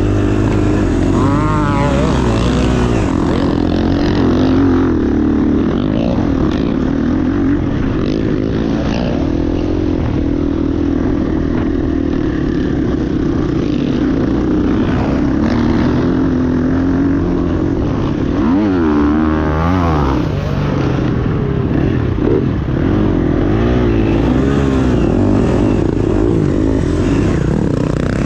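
Motocross bikes running on a track, several engines overlapping and revving up and down. About two-thirds of the way through, one bike revs sharply up and back down.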